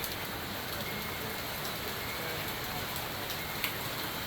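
Steady rain falling and pattering on surfaces, with a few separate drop taps and one slightly louder tap about three and a half seconds in.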